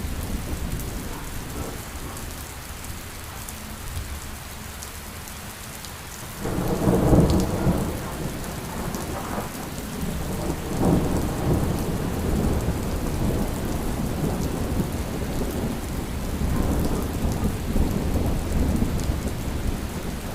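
Thunderstorm: steady rain falling with a low rumble of thunder. About six and a half seconds in, a loud peal of thunder breaks and rolls on, swelling again several times.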